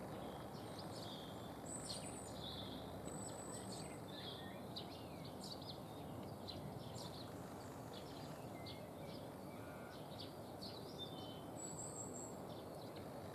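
Small songbirds calling: many short, high chirps and twitters scattered throughout, over a faint steady background hiss.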